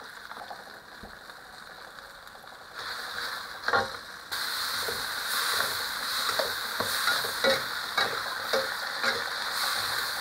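Tomato wedges and shrimp paste sizzling in hot oil in a stainless steel wok. A metal spatula scrapes and taps against the pan as they are stirred. The sizzle grows louder about three seconds in and again a second later.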